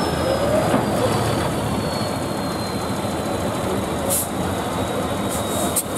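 Competition trial truck's diesel engine running steadily, with a few short hisses of air near the end.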